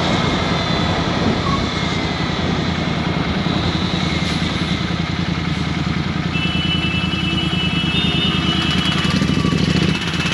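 Triumph Speed 400's single-cylinder engine running at a steady, even engine speed through an aftermarket exhaust. A pair of thin high steady tones joins about six seconds in.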